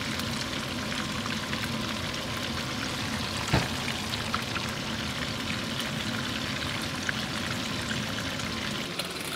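Salmon pieces sizzling steadily as they fry in oil in a frying pan, with one sharp knock about three and a half seconds in.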